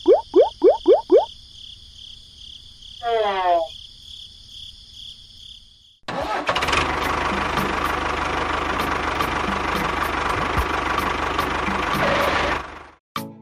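Crickets chirping steadily, with a quick run of six rising chirps at the start and a falling gliding tone about three seconds in. About six seconds in, an engine starts suddenly and runs steadily for about six seconds, then cuts off.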